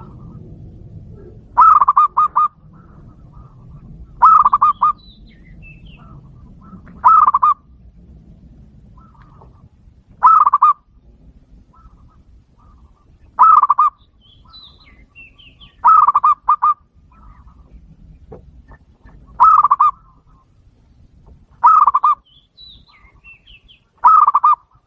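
Zebra dove (perkutut) cooing: nine short, loud phrases of quick rolling notes, repeated about every two and a half to three seconds.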